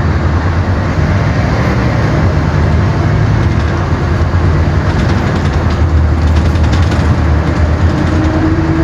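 Scania K 360 bus's five-cylinder diesel engine running steadily: a deep, even drone with a haze of running noise over it.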